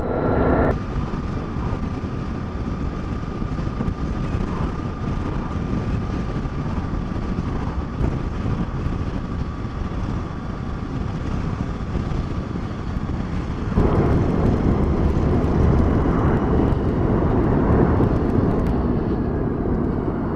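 Motorcycle engine and wind rush heard while riding, a steady rumble that gets louder about 14 seconds in.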